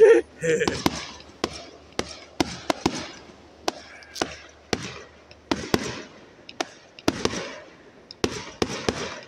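Fireworks display going off: a rapid, irregular series of sharp bangs, about two a second, each with a short echoing tail, the loudest right at the start.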